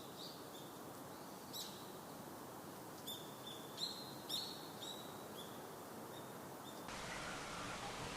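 A small bird calling outdoors: a series of short, high chirps, the loudest a few seconds in, over a faint steady hiss. Near the end the background hiss grows louder.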